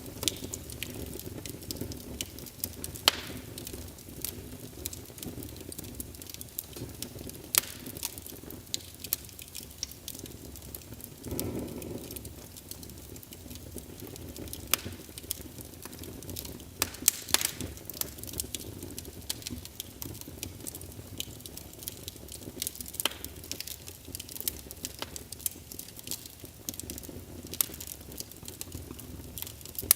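Wood fire burning in a fireplace: irregular sharp crackles and pops from the logs over a steady low rush of flame, with a brief louder surge about eleven seconds in.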